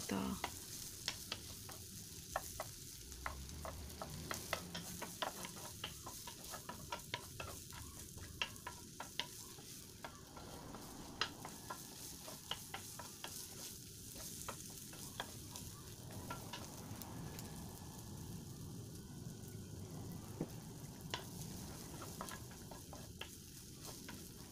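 Cut sausage pieces frying in a nonstick pan: a soft, steady sizzle with many small clicks and taps of a wooden spoon stirring and pushing the pieces about.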